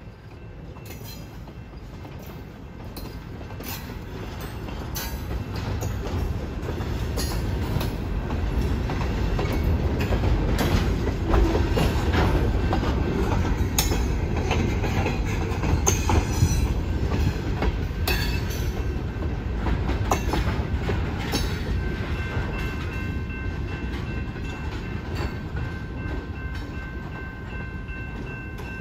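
Freight train of covered hoppers and gondolas rolling slowly past, wheels clicking and clanking over the rail joints over a steady low rumble. It grows louder toward the middle and then eases off, and a thin steady high tone comes in about two-thirds of the way through.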